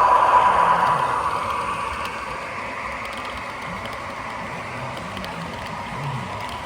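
Model train locomotive running on the layout track, its motor and gears whirring. The whir is loudest at first and fades over about two seconds, then carries on steadily and more quietly.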